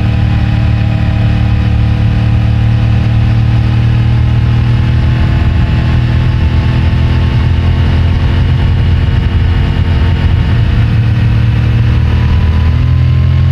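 CFMOTO 450MT's 449 cc parallel-twin engine running through its stock exhaust at a steady, low-revving cruise, the pitch easing slightly, then shifting near the end as the revs change. Picked up by a microphone in the rider's pocket.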